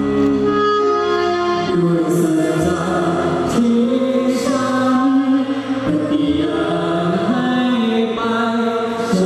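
School choir singing a Thai song in several-part harmony, holding long sustained notes.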